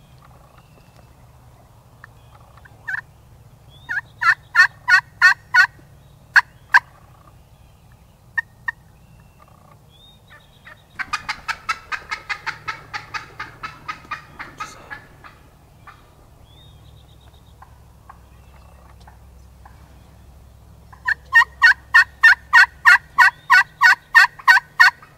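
Wild turkey calling: runs of sharp hen-style yelps, a short string about 4 seconds in and a longer evenly spaced string of a dozen or so near the end, with a tom's rattling gobble about 11 seconds in.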